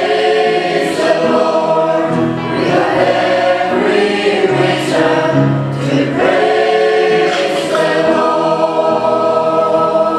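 Choir singing in church, many voices together, holding a long chord over the last couple of seconds.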